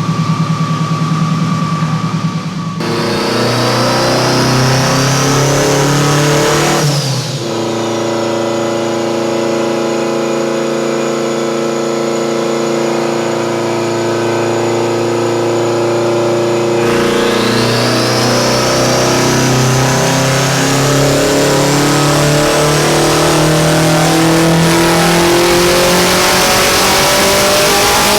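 Subaru Impreza WRX STI's turbocharged flat-four engine under load. It revs up, drops sharply about seven seconds in as at a gear change, holds a steady speed for about ten seconds, then climbs slowly again.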